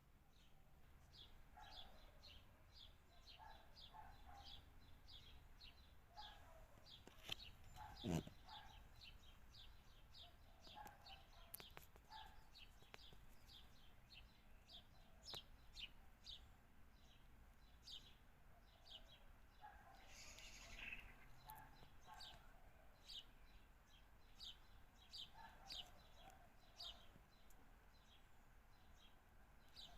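Faint chirping from small birds: short high chirps about two a second, with lower calls now and then. Two sharp knocks come about a quarter of the way in.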